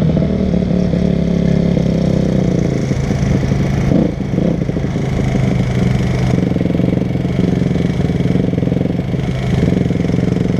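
Dirt bike engine running under way, its pitch easing down about a third of the way in and the level dipping briefly about four seconds in.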